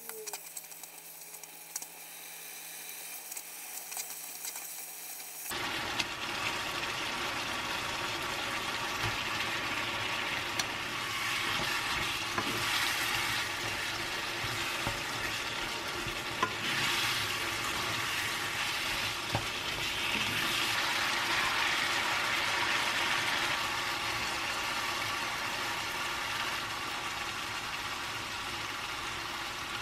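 Pork and onions in red chili-paste sauce sizzling and frying in a frying pan as they are stirred, with a few light clicks. Softer at first, then a loud, steady sizzle from about five seconds in.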